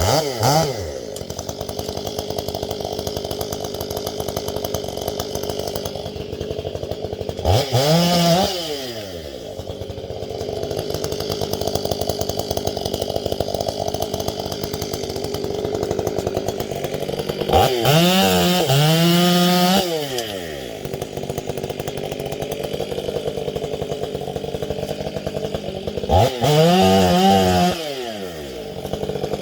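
Gas chainsaw running at idle and revved up to full throttle and back down about four times, each burst lasting one to two seconds.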